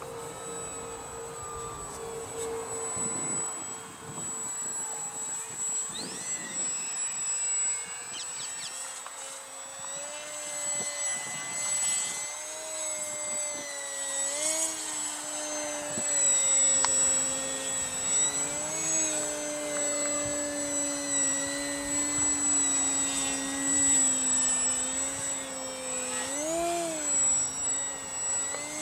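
Radio-controlled model airplane in flight, its engine note rising and falling in pitch as it passes and the throttle changes, getting louder in the second half.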